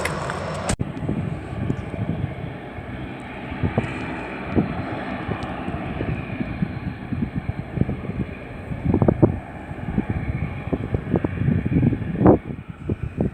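Wind buffeting the microphone in gusts over the faint, steady sound of a Dash 8-Q400 turboprop airliner. The louder aircraft sound cuts off abruptly just under a second in.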